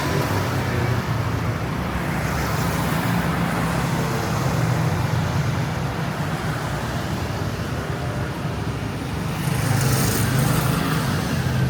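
Street traffic: a steady mix of vehicle engines and tyre noise, with a vehicle passing louder near the end.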